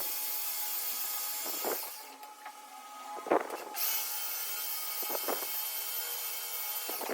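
Workshop tool working metal: a steady high hiss of cutting or grinding for about two seconds, a pause with a sharp knock, then the hiss again for the last three seconds.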